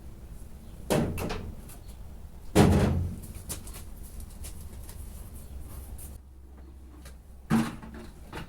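Three heavy knocks or bangs: one about a second in, a louder one at about two and a half seconds, and another near the end, each with a short ringing tail.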